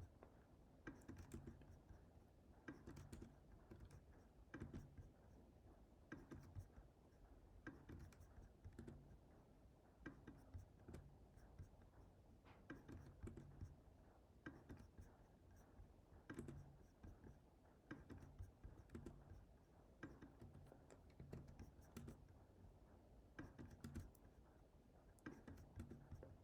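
Faint, irregular computer keyboard typing: scattered key clicks over quiet room tone.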